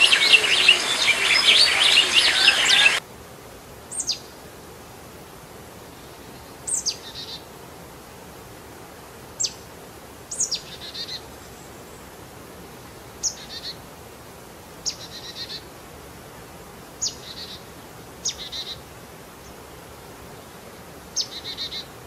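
A dense chorus of many birds chirping cuts off suddenly about three seconds in. After it, a single bird repeats a short call every one to three seconds, a quick falling whistle followed by a brief buzzy trill, over a faint hiss.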